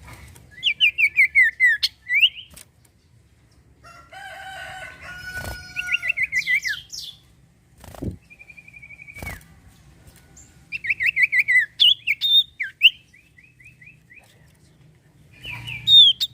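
Common iora (cipoh, sirtu) singing: repeated phrases of quick falling chirps and short trills, with a few sharp knocks between phrases.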